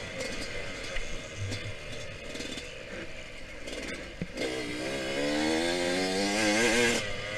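Yamaha YZ125X two-stroke dirt bike engine under race riding: lower and rougher with scattered knocks for about four seconds, then the revs climb steeply, wavering while held high, and fall away near the end.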